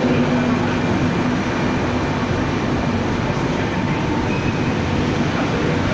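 Trenitalia passenger train rolling slowly past along the platform: a steady rumble of the coaches' wheels on the rails.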